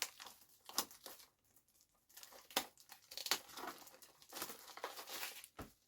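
Plastic packaging crinkling and tearing in irregular crackles as a speedcube is unwrapped, with a few sharper clicks.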